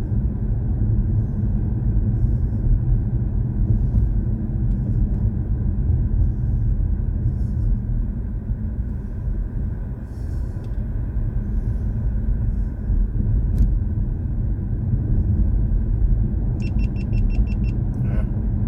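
BMW i4 M50 electric car on the move: a steady low road and tyre rumble with no engine note. Near the end comes a quick run of about eight short, high beeps.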